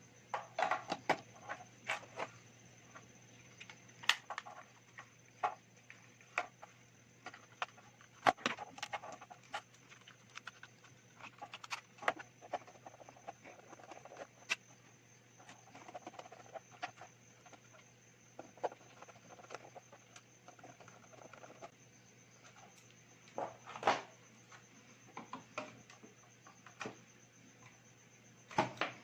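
Irregular light clicks, taps and scrapes of hands handling the small parts of an LED light and its driver, with a few sharper knocks, over a faint steady high-pitched whine and low hum.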